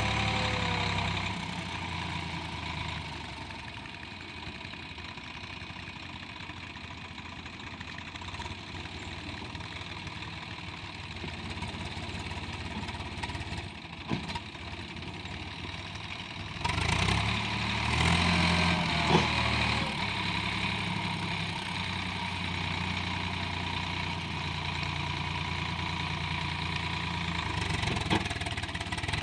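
Swaraj 744 tractor's three-cylinder diesel engine running steadily, growing louder a little over halfway through.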